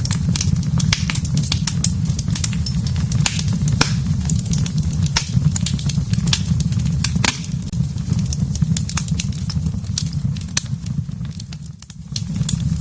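Wood fire burning in a fireplace: a steady low rumble of flames with frequent sharp crackles and pops, dipping briefly near the end.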